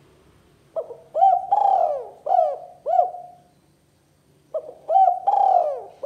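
Spotted dove (tekukur) cooing in its 'kuk 2' call type: two phrases of short arched coo notes, the first about a second in, the second starting near the end.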